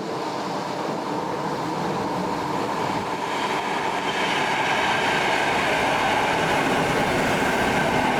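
Electric train running on the station tracks, growing louder about three seconds in, with a steady high whine over the rumble.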